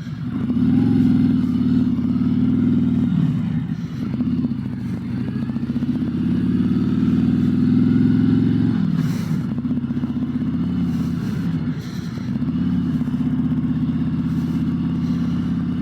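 Harley-Davidson Road Glide's V-twin engine running under way. Its note climbs, dips about three seconds in, climbs again and drops sharply about nine seconds in as the gears change, then holds steady.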